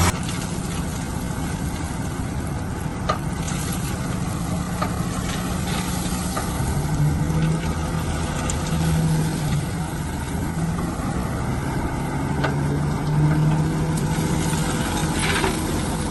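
Heavy diesel construction-machine engine running, its pitch rising and falling a few times as it works, with a few sharp knocks.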